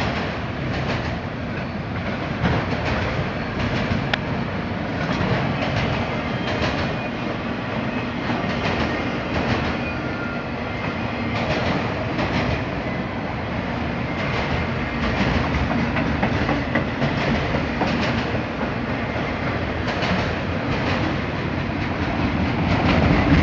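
Mixed freight train rolling past, its rail cars rumbling steadily with repeated clacks of the wheels over the rail joints.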